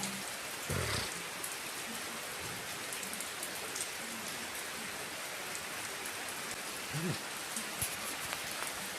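Steady rain falling and pattering on surfaces, with scattered drop ticks. There are two soft low thuds, about a second in and again near seven seconds.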